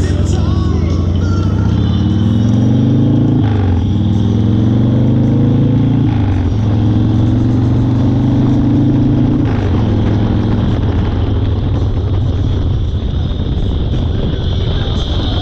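1992 Harley-Davidson Fat Boy's Evolution V-twin pulling away, rising in pitch and dropping sharply twice as it shifts up through the gears, then holding steady. After about ten seconds the engine sinks under a steady rush of wind.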